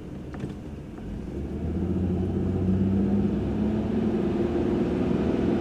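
1995 Chevrolet Monte Carlo's V6 engine accelerating. Its note grows louder and climbs about a second and a half in, then holds steady under load.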